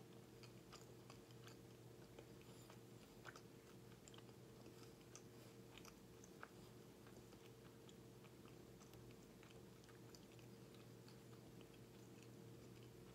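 Faint close-miked chewing: a man chewing a bite of egg, ham and bacon bagel sandwich, with soft scattered mouth clicks that come more often in the first half.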